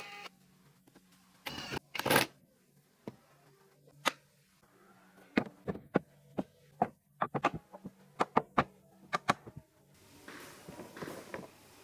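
A string of light clicks and taps, several a second, following a short pitched sound about two seconds in.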